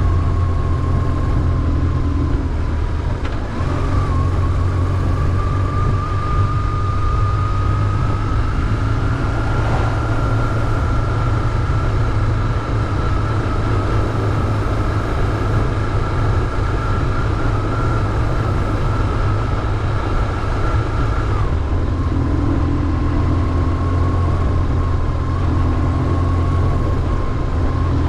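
BMW R1150GS's air/oil-cooled boxer twin running under way, with a steady low drone. A thin whine rides above it, rising slowly and dropping suddenly about three quarters of the way through.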